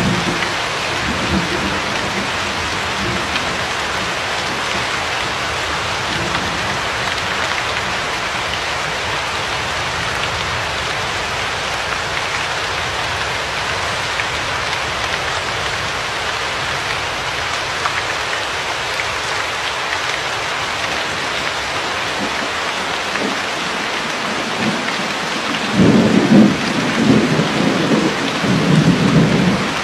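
Steady rain falling, with a faint low rumble of thunder at the start. A louder rolling rumble of thunder comes near the end and lasts about four seconds.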